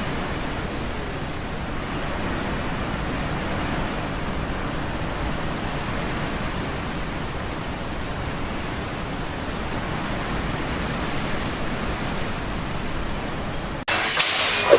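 Steady, even rushing noise. Near the end it cuts suddenly to louder sound with sharp clicks and knocks.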